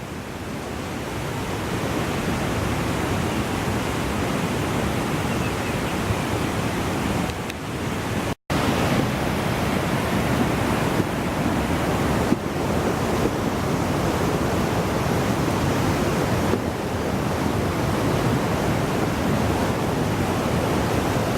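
Steady rushing of floodwater, a loud, even roar of moving water that breaks off for an instant about eight seconds in.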